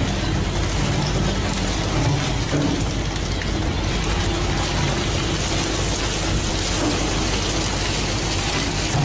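Fishing boat's engine running steadily, a low drone under a constant rushing hiss.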